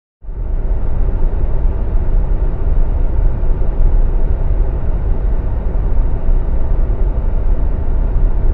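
Loud steady rumbling noise, heaviest in the deep low end, that starts abruptly just after a moment of silence and holds on without a break.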